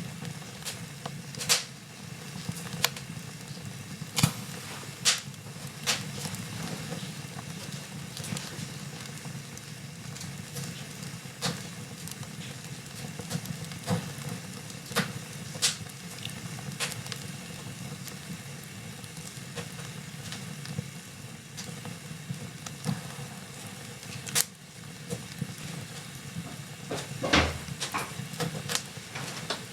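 Wood fire in a fireplace crackling: sharp, irregular pops over a steady low rumble of the burning, with a heavier knock near the end.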